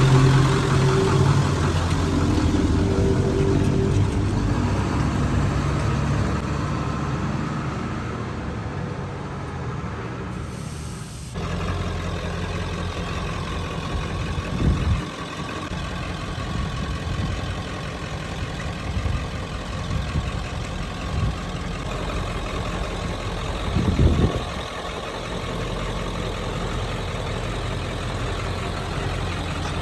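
A 1996 Ford F-250's 7.3 Powerstroke V8 turbo-diesel running. The sound changes abruptly about eleven seconds in, and the engine briefly swells twice, around fifteen and twenty-four seconds in.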